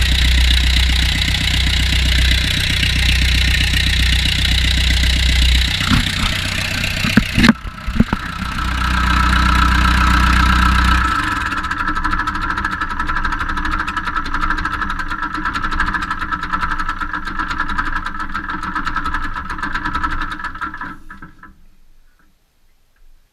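John Deere JD400 backhoe's engine running, brought back to life after sitting for more than ten years. A few sharp knocks come around six to eight seconds in. After that the engine note changes to a steadier, higher-pitched hum, and it dies away about 21 seconds in.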